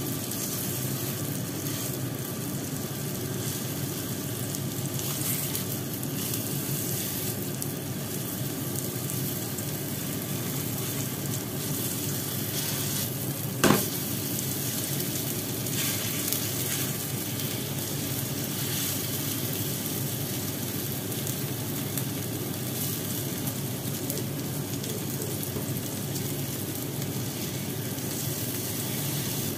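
Pumpkin patties with minced prawn and pork sizzling steadily as they fry in oil in a nonstick pan, with one sharp knock about halfway through.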